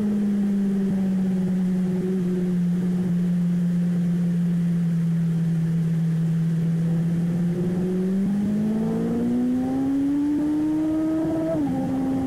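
Motorcycle engine at track pace: the note sinks slowly for several seconds as the bike slows, then climbs under acceleration from about eight seconds in, with a sudden drop in pitch near the end as it shifts up a gear.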